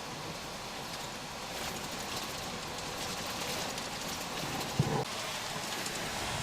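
Steady road noise inside a moving semi truck's cab, with one short knock a little under five seconds in.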